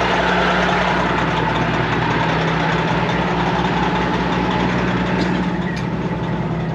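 Semi-truck's diesel engine running steadily at low speed, with a couple of faint clicks near the end.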